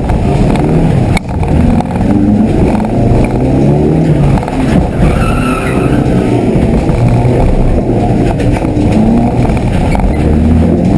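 Citroën Saxo VTS engine revving hard and dropping back as the driver shifts gears and lifts between cones, heard from inside the cabin. The tyres squeal briefly about five seconds in.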